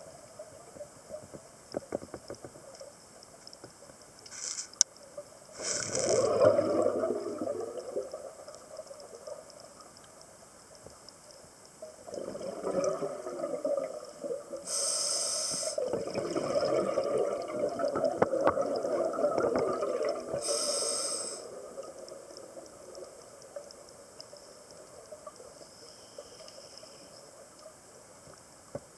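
Scuba diver's regulator breathing underwater: a few short hissing inhalations, each followed by a rush of exhaled bubbles, with the longest stretch of bubbling through the middle.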